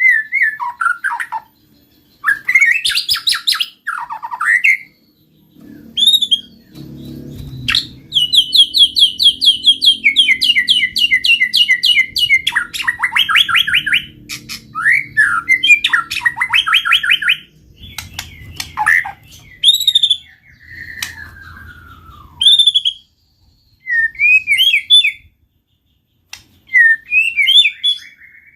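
Caged white-rumped shama (murai batu) singing loudly in full song: varied whistled phrases, sweeping notes and long runs of fast repeated trilled notes, broken by short pauses. A faint low rumble runs underneath through the middle.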